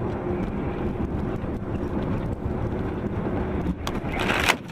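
Car engine running with a steady low hum. Near the end a loud rushing noise swells briefly and cuts off sharply.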